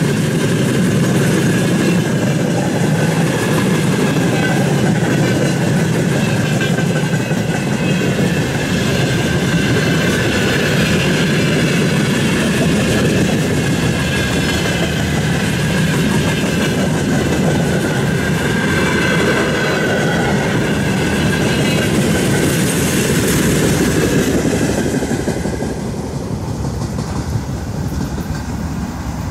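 Freight train wagons (tank cars, then open gondolas) rolling past on the rails: a steady loud running noise with high squealing tones from the wheels. Near the end the last wagon goes by and the noise falls away.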